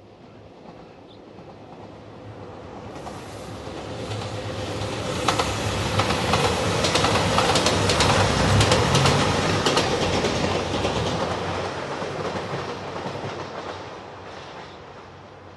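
JR Shikoku 2700 series diesel limited-express train passing, growing louder as it approaches, loudest about halfway through, then fading as it moves off. Its wheels clack over the rail joints as it goes by.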